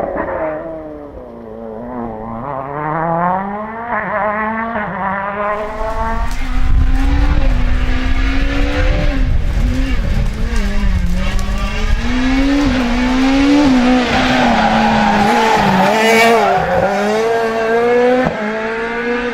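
Rally cars' engines revving hard, the pitch climbing and dropping again and again through gear changes and lifts. Louder and fuller from about six seconds in.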